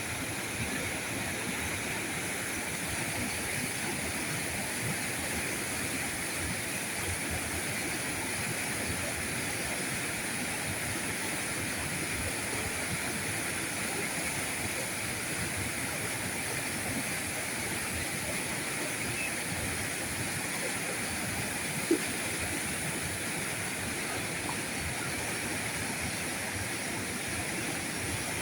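River current rushing steadily over its bed, an even unbroken sound of flowing water. A single brief click cuts through about three-quarters of the way in.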